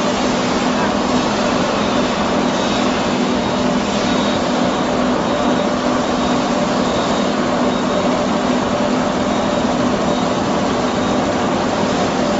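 Vegetable washing machine running with a load of potatoes: steady, unbroken machine noise with a constant low motor hum.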